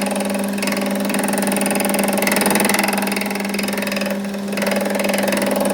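A motor-driven machine running steadily, with a strong constant hum and a dense high-pitched noise over it; it dips briefly about four seconds in.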